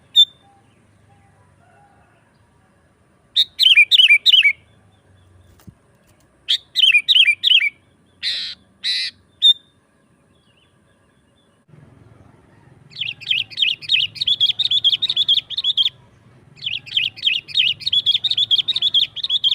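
Sooty-headed bulbul calling: short bursts of quick repeated notes and two harsher calls, then long runs of rapid, excited chattering in the second half.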